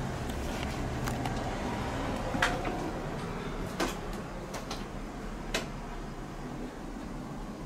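A train rolling by: a steady rumble with a few sharp clanks, the loudest about two and a half seconds in, others about a second and a half and three seconds later, the rumble slowly getting quieter.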